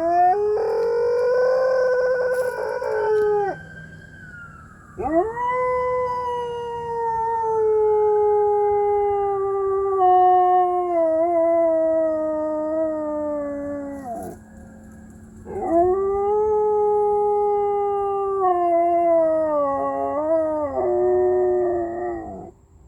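A dog howling in three long drawn-out howls, each sliding slowly down in pitch. The middle howl lasts about nine seconds, and the last one wavers before it breaks off near the end.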